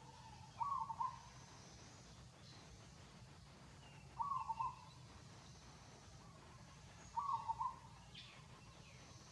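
A bird's short hooting call, repeated three times about three seconds apart, with faint higher chirping in the background.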